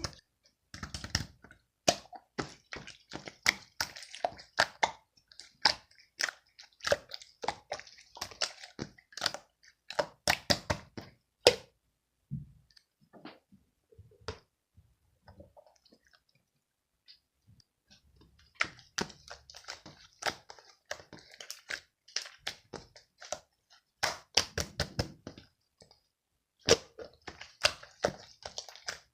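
Close, irregular crackling and clicking noises, dense for the first dozen seconds, nearly stopping for several seconds in the middle, then starting again.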